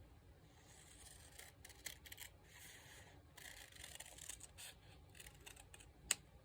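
Faint rustling of paper being handled and adjusted, with a few light clicks.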